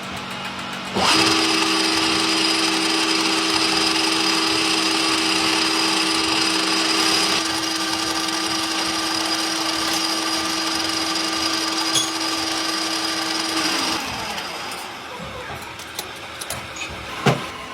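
A powered machine tool starts suddenly and runs with a steady whine, then winds down with a falling pitch near the end.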